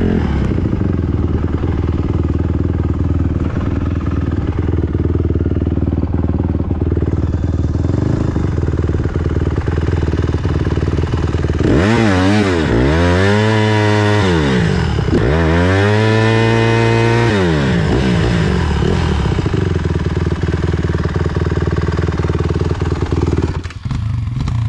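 Small single-cylinder four-stroke dirt bike engine running steadily, then revved up and back down twice about halfway through before settling again. Its loudness dips briefly near the end.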